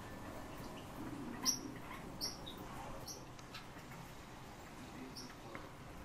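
Short, high chirps from small cage birds, four or five scattered calls, the loudest about one and a half seconds in.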